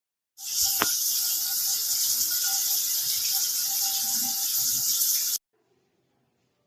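Shower head spraying water, a steady hiss that starts and cuts off abruptly after about five seconds.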